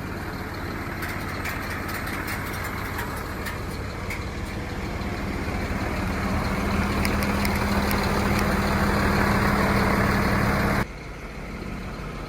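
A motor vehicle engine running steadily, growing louder from about halfway. Near the end the sound drops suddenly to a quieter engine drone.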